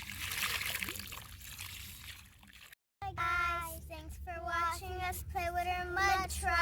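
Wet sand and mud squelching and trickling as it is scooped by hand around a toy truck. It stops abruptly about three seconds in, and a high child-like voice starts singing a short melody.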